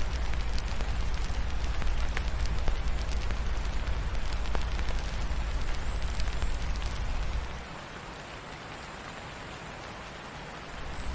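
Steady rain mixed with a crackling wood fire, scattered sharp pops of the fire over the hiss of the rain. A deep low rumble under it cuts out about two thirds of the way through, leaving the sound noticeably quieter, and returns right at the end.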